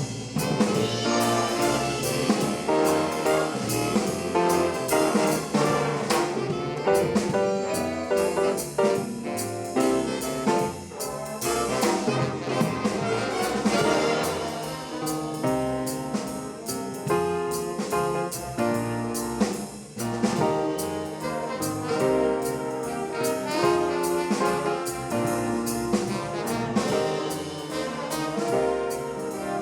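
High school jazz swing band playing, with trumpets, trombones and saxophones over a drum kit.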